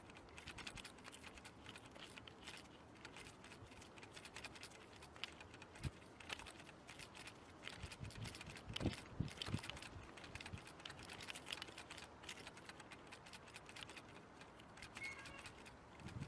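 Faint, irregular light tapping and clicking, many small ticks close together with a few louder knocks.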